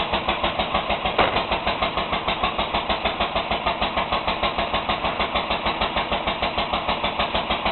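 1938 IHC McCormick Deering LB single-cylinder engine running steadily under its throttle governor, firing every cycle in an even beat of several pulses a second rather than hit-and-miss. A single short knock sounds about a second in.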